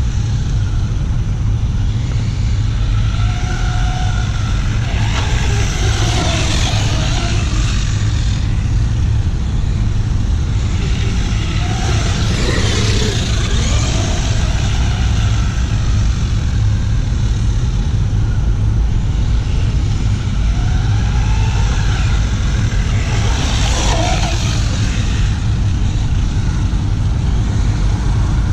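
Remo Hobby Dinosaurs Master 5 R/C monster truck's electric motor whining up and down in three bursts as it accelerates, with noise from its tyres, over a steady low rumble.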